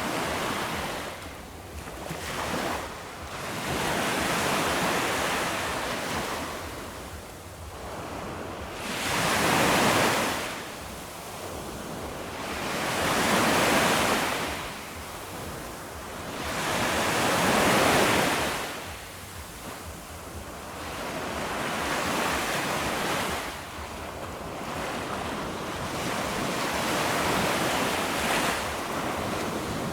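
Ocean waves breaking and washing on a beach, the surf swelling and falling back every few seconds, with the strongest breakers about a third and halfway through. Some wind noise on the microphone.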